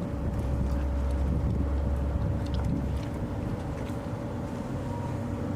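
Steady low rumble of a car running, heard from inside the cabin, heavier for the first few seconds, with a faint steady hum and a few light clicks.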